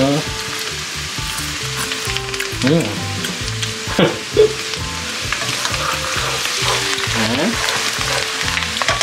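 Hot oil sizzling and crackling in a wok as sliced petai (stink beans) fry, stirred with a slotted spatula. There are two sharper clacks about four seconds in.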